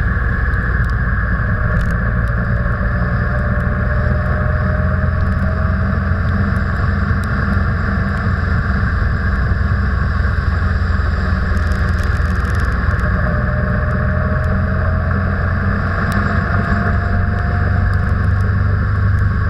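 Car on the move: a steady, loud low rumble of engine and road noise, with a faint whine that rises slowly twice.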